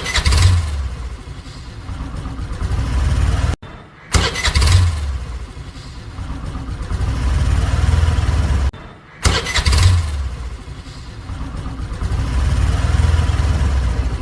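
A motor vehicle engine starting and running, heard three times over. Each take opens with a sharp start, then settles into a low running rumble that swells, and breaks off abruptly before the next begins.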